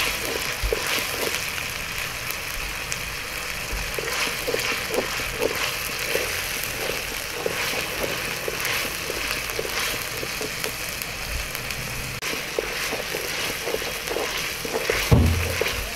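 Onion and ginger-garlic paste frying in oil in an aluminium kadhai, sizzling steadily as a wooden spoon stirs and scrapes the pan in repeated strokes. There is a low bump near the end.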